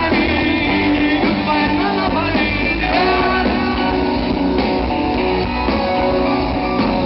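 Live rock band playing an instrumental passage between verses, with guitar to the fore over bass and drums.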